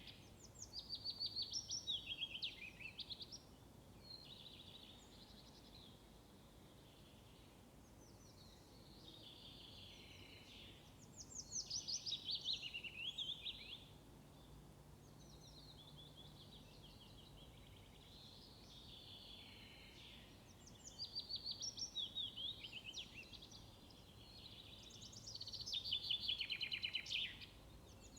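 A songbird singing, repeating short fast trilled phrases of two to three seconds every few seconds, over faint low background noise.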